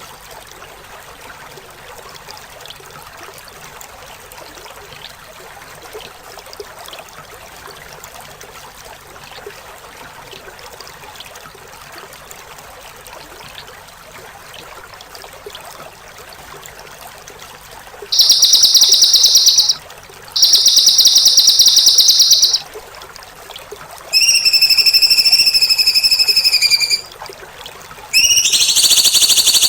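Soft running-water background, then loud songbird calls from about two-thirds of the way in: two bursts of a rapid, high-pitched trill, followed by two longer, steadier calls. They are the rough, rapid 'besetan' trills used as masteran recordings to teach caged songbirds.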